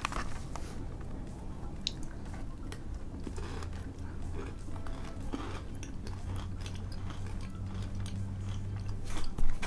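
Chewing and crunching of a Pepero Crunky chocolate-coated biscuit stick with crisped rice: a run of small, crisp crunches.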